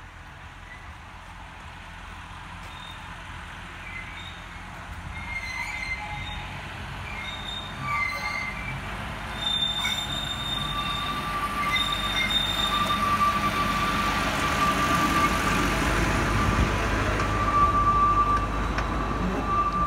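Narrow-gauge diesel locomotive and its passenger coaches approaching and passing, the engine and running gear growing steadily louder. High wheel squeal from the curve grows stronger in the second half.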